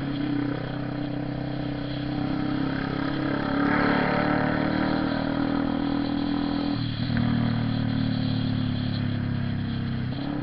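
Honda CB 300R motorcycle's single-cylinder engine running steadily under way, with a short dip and a change in the engine note about two-thirds of the way through.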